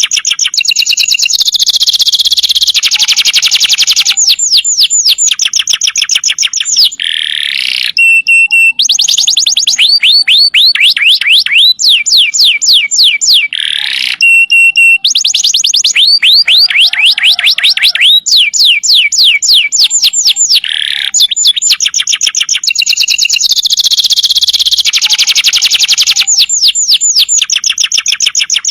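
Domestic canary singing long, rapid trills: runs of quick, falling whistled notes, several a second, with a few short breaks between phrases.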